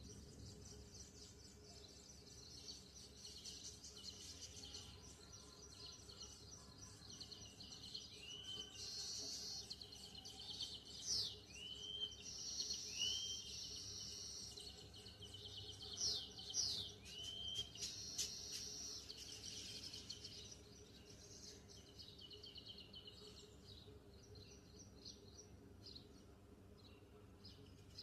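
Birds calling: a steady high-pitched chorus of chirps, with a handful of short arched chirps and quick whistled sweeps in the middle stretch.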